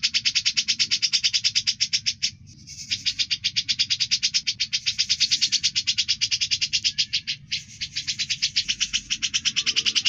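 A songbird's sharp 'besetan' call, the kind used as a masteran (training recording) for songbirds: a very fast, harsh run of short notes, about ten a second, kept up almost without pause, with two brief breaks after about two seconds and after about seven seconds. A faint low hum lies underneath.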